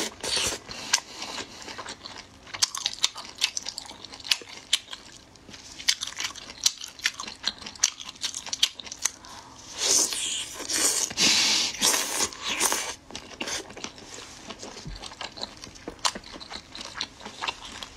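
Close-up mouth sounds of a person biting and chewing a whole cooked octopus: a busy run of sharp wet clicks and smacks. Two longer rushes of breathy noise come about ten and twelve seconds in.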